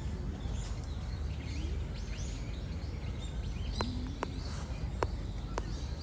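Small birds chirping repeatedly over a steady low background hum of outdoor noise, with a few faint clicks in the second half.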